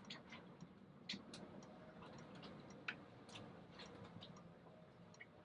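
Faint, irregular light clicks and ticks, a few a second, over a low steady hum: typical of tapping and clicking through a weather-download app on a device.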